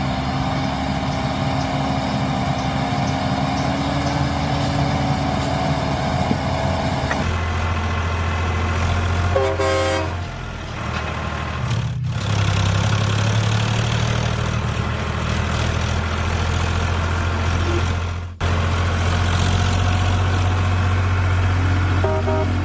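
Small vehicle engine running steadily with a low drone, with a brief horn toot about ten seconds in. The sound cuts off abruptly twice and resumes, as if edited.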